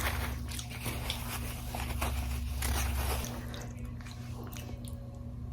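A person biting and chewing food close to the microphone, with dense sharp clicks of mouth and food sounds over the first three seconds that thin out after that. A steady low hum runs underneath.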